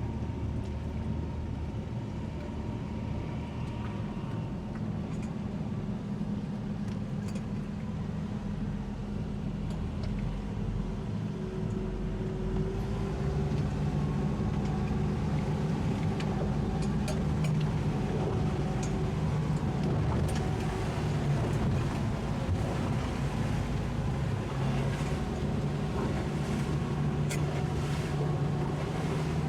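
Twin 200 hp Suzuki outboard engines running steadily under the load of a heavy tow, growing louder about a third of the way in as the throttle comes up.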